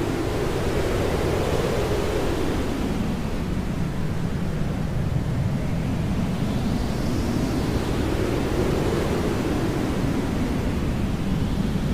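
Hair dryer running steadily, a deep even rushing noise, its tone slowly sweeping up and down every few seconds.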